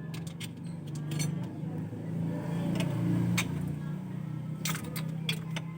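Steady low hum of a running engine, with scattered sharp metallic clicks and clinks of hand tools.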